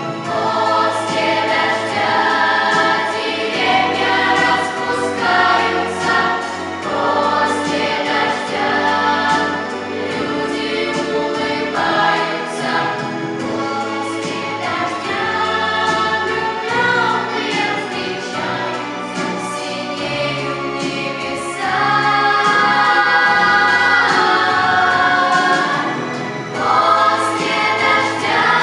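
A vocal ensemble singing a pop song in harmony over a backing track, with sustained held notes and a steady bass line; a louder held passage comes about two-thirds of the way in.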